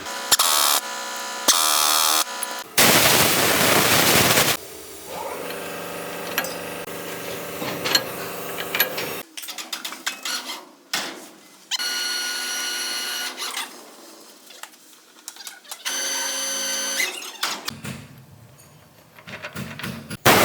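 A string of short workshop power-tool sounds with abrupt cuts between them. They include steady, high-pitched motor whines that each last about a second and a half, loud noisy bursts, and scattered metallic clicks.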